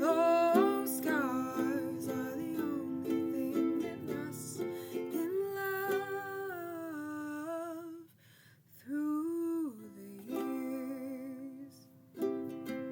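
Music: ukulele playing, with a wordless sung melody gliding over it. The music drops away almost to silence briefly about eight seconds in and again near the end.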